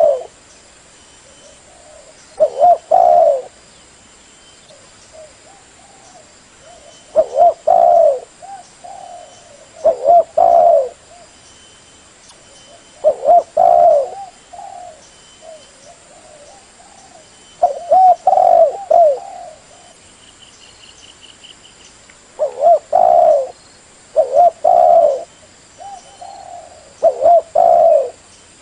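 Spotted dove cooing: about eight low, hoarse coo phrases, each about a second long, repeated every few seconds.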